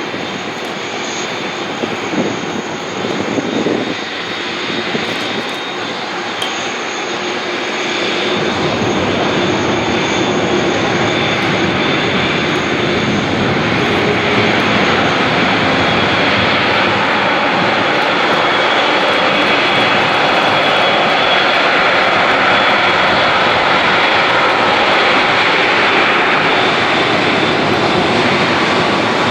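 Airliner's jet engines running, a steady rushing noise with a thin high whine, growing louder about eight seconds in and staying loud.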